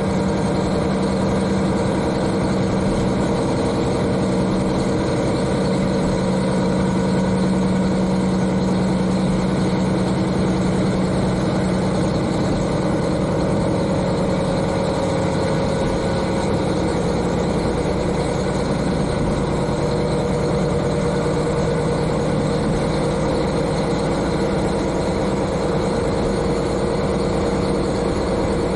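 A KiHa 40 diesel railcar's N-DMF13HZI engine, heard from directly above it, runs with a steady drone. Its pitch shifts slightly about halfway through.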